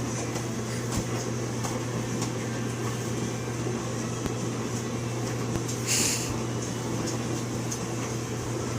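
Dishwasher running with a steady hum. A short hiss comes about six seconds in.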